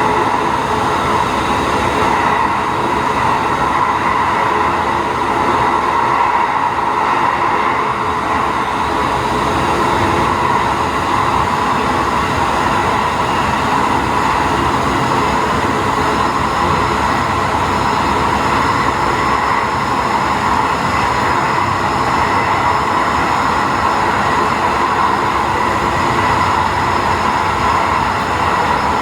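Diesel railcar running steadily along the track, heard from inside at the front of the train: a continuous engine and rolling noise with a steady hum, no sudden changes.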